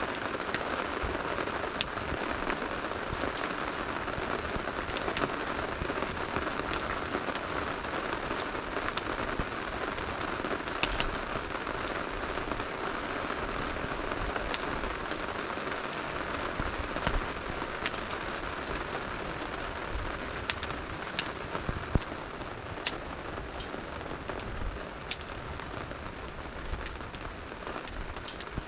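Steady rain falling, with scattered sharp pops and crackles from a wood campfire burning in it.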